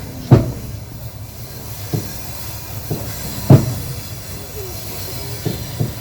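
Passenger train wheels knocking over rail joints with a steady low rumble, heard from inside the carriage. Sharp knocks come irregularly; the loudest fall about a third of a second in and about three and a half seconds in, with two close together near the end.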